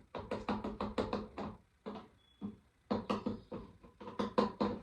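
Aerosol spray can being shaken hard, its mixing ball clacking about six times a second, in three or four bouts with short breaks. The shaking checks that there is still lubricant left in the can.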